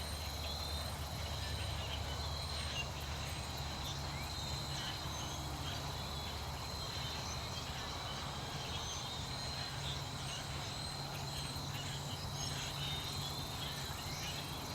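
Outdoor wildlife ambience: a steady high-pitched insect trill with scattered faint chirps and calls over a low steady hum.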